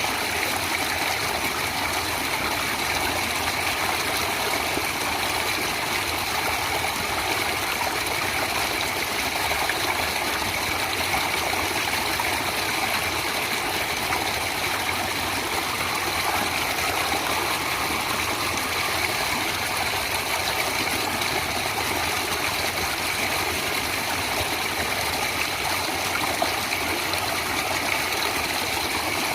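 Flowing stream water, a steady, even sound of running water with no breaks or changes.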